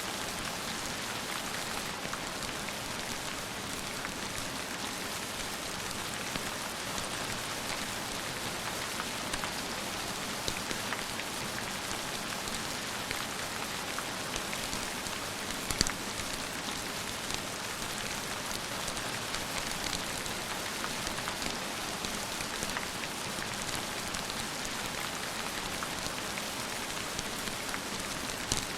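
Steady rain, an even hiss of falling drops with scattered small clicks, and one sharper click about halfway through.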